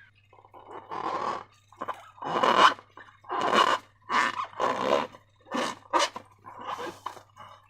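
Slime squelching as it is squeezed and worked by hand, a run of about ten short, wet squishes in uneven rhythm.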